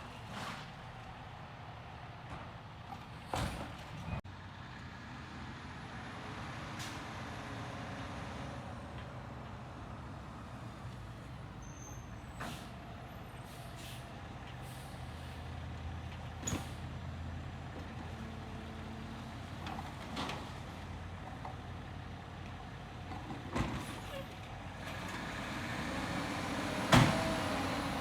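Garbage truck running steadily, with a string of sharp bangs and hissing bursts spread through it and the loudest bang near the end.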